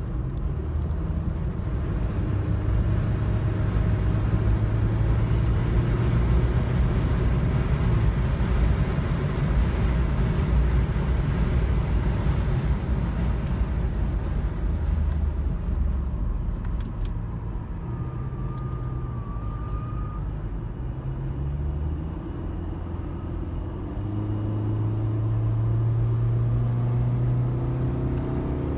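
Car engine and road noise heard from inside the cabin at track speed, the engine note rising and falling with the throttle and climbing harder over the last few seconds.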